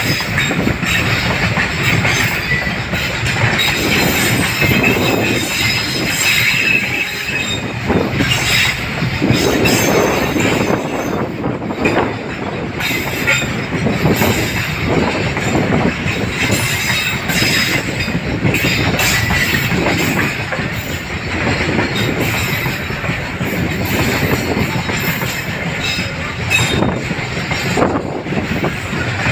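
Long container freight train rolling past, its wagons' wheels clacking over the rail joints in an uneven string of knocks, with a steady high squeal from the wheels on the rails.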